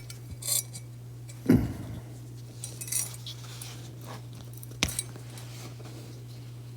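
A few light clinks and knocks, four or five short ones spread out with one a little heavier about a second and a half in, over a steady low hum.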